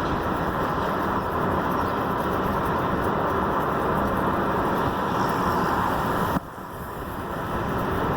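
Steady road and tyre noise from a 2011 Ford Edge driving, heard through its lowered window. The level drops sharply about six and a half seconds in, then builds back up.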